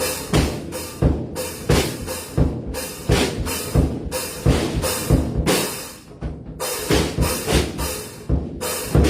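Drum kit played in a steady beat: bass drum and snare strikes with cymbals ringing over them, easing briefly about six seconds in.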